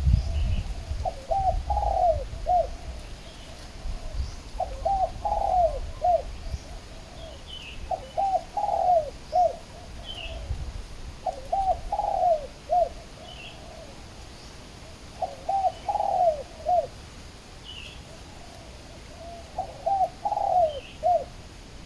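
Spotted doves cooing: a phrase of several low, falling coo notes repeated about every three to four seconds, six times over. Faint high chirps of small birds come in between the phrases.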